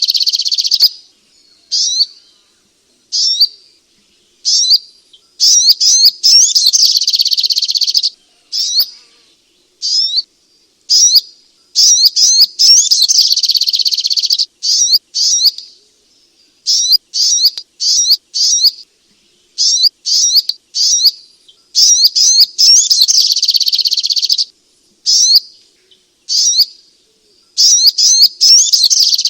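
Little spiderhunter (sogok ontong) singing: high, sharp chirps. Quick single notes and short clusters alternate with dense chirping runs of two to three seconds, repeated again and again with brief pauses between.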